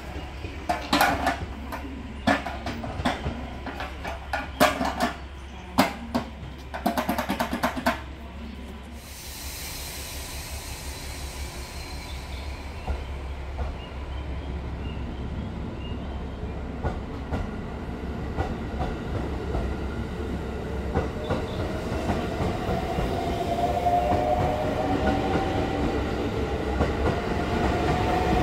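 Sharp clanks and hisses in the first eight seconds as the 285-series Sunrise sleeper train's two halves are uncoupled. Then the Sunrise Izumo half pulls out, its electric traction motors whining and rising in pitch as it gathers speed, louder toward the end.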